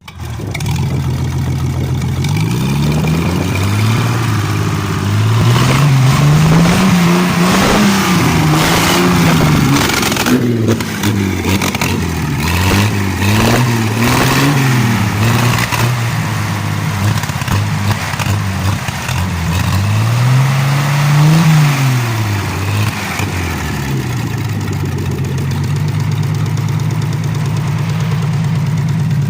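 GAZ-52 inline-six petrol engine on its first run, revved up and down several times and then settling to a steady idle about twenty-four seconds in.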